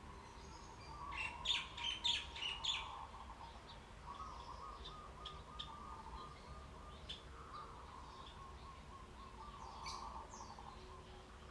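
Small birds chirping, with a quick run of loud, sharp chirps from about one to three seconds in, then scattered calls over a softer warbling song.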